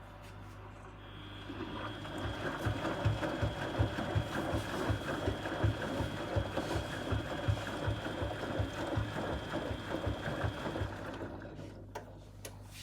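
Washing machine shaking and knocking about four times a second, with a steady high motor whine. It starts about a second and a half in and winds down near the end.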